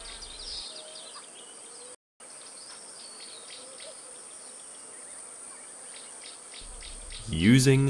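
Insects chirping steadily, with scattered short high chirps over a constant high-pitched trill. The sound drops out completely for a moment about two seconds in.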